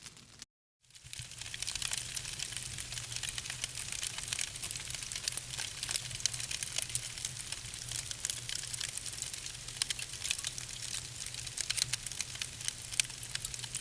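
Wood fire in a fireplace, burning logs crackling and popping irregularly over a steady hiss and a low steady rumble. The sound cuts out for a moment just after the start and then fades back in.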